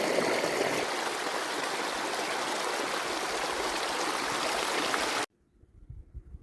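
Flowing stream water, a steady rushing that cuts off abruptly about five seconds in, leaving much quieter low knocks and clicks.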